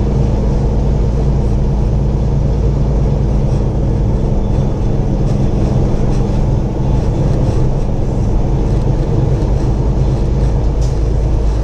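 Steady low drone of a semi truck's diesel engine and road noise inside the cab while cruising, holding an even level throughout.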